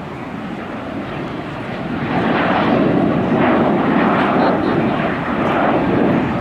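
Airliner's jet engines passing, a broad rushing noise that swells about two seconds in and stays loud with a slight flutter.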